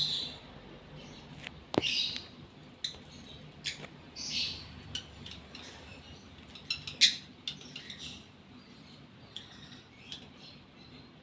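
Lovebird chirping in short, scattered high calls, the sound of a bird in breeding condition. A sharp click comes near 2 seconds in, and the calls thin out towards the end.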